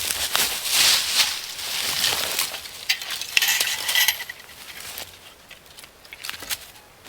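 Dry leaf litter and twigs rustling and crackling as forest-floor debris is scraped and cleared by hand, busiest in the first half and trailing off after about four seconds, with a brief higher note a little past the middle.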